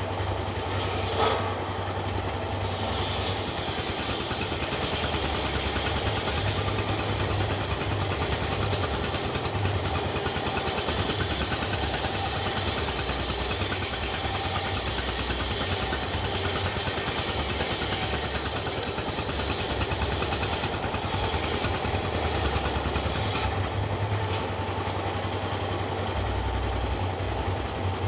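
An engine running steadily, with a brighter, hissier sound added from about two seconds in until a few seconds before the end.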